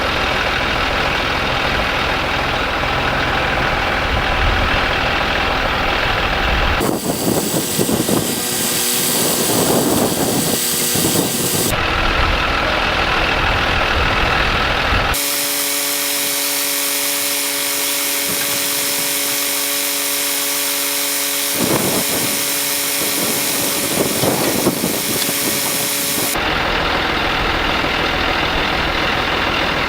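A heavy engine running, its sound changing abruptly several times, at about 7, 12, 15 and 26 seconds in. Between these shifts it alternates between a low rumble, a broad hiss, and a stretch of steady tones.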